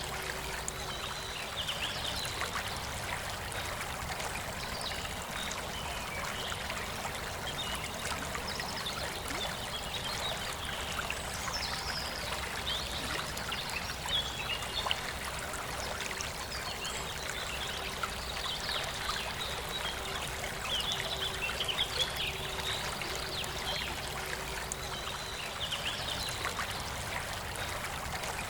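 Forest river flowing steadily, with birds chirping on and off over the sound of the water.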